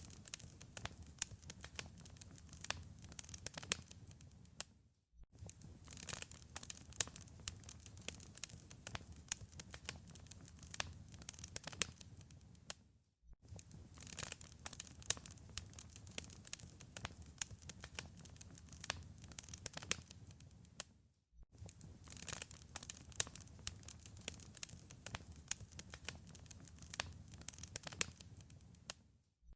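Wood fire in a fireplace crackling, with many sharp pops and snaps over a soft low rumble. The sound cuts out for a moment about every eight seconds.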